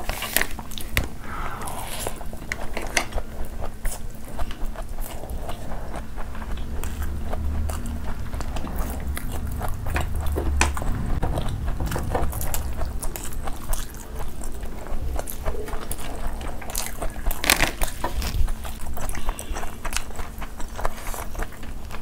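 Close-up eating: two people chewing and smacking on mouthfuls of rice and meat curry eaten by hand, with many short wet mouth clicks.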